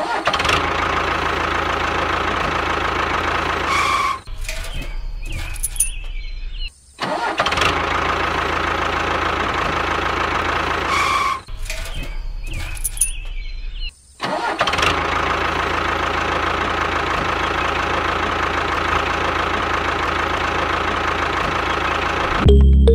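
Engine of a home-built mini tractor running steadily, heard in several short stretches joined by abrupt cuts. Music comes in near the end.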